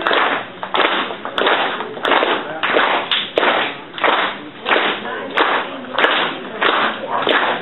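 A steady rhythm of sharp, noisy beats, about three every two seconds.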